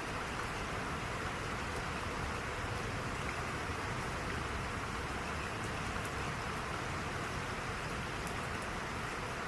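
Steady rain falling, an even hiss with faint drop ticks throughout.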